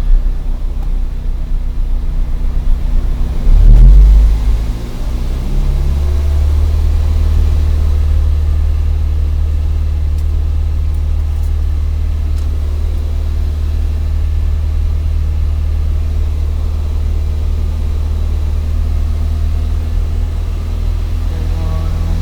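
Car engine raised from idle with a brief rev about four seconds in, then held steady at about 2000 rpm as a constant low drone.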